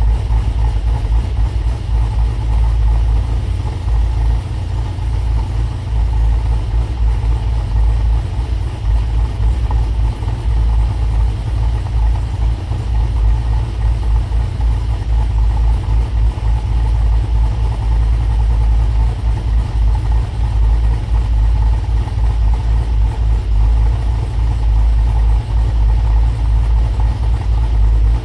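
Pontiac G8's cammed V8 idling steadily through long-tube headers, an X-pipe and Hooker Maxflow mufflers during a cold start, with a deep, even exhaust note.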